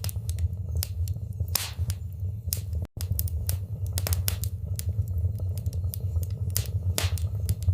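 Wood fire crackling in a fireplace: irregular sharp pops and snaps over a steady low rumble of burning. The sound cuts out for an instant about three seconds in.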